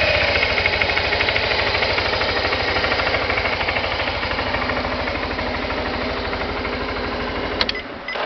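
Suzuki Skywave 250 FI scooter's single-cylinder engine idling with an even, rapid low thump, settling after a rev. About seven and a half seconds in the engine cuts off, followed by a few short clicks.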